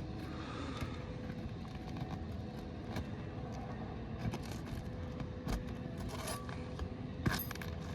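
Scattered light scrapes and clicks of hand tools and shingles being worked on an asphalt shingle roof, over a steady background hum.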